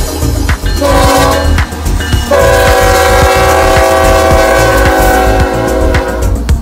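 Locomotive air horn sounding a chord of several tones: a short blast about a second in, then a long blast of about four seconds, over the low rumble of the train.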